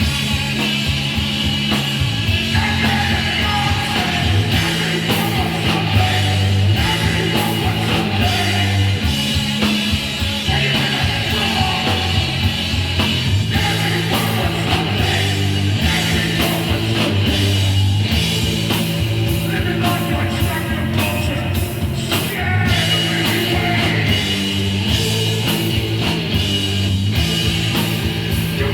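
Hardcore punk band playing live: electric guitar, bass and drums going hard without a break, with vocals over them.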